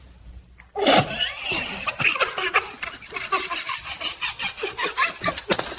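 A baby laughing in quick repeated giggles and squeals, starting suddenly about a second in, with rubbing and rustling noise behind it.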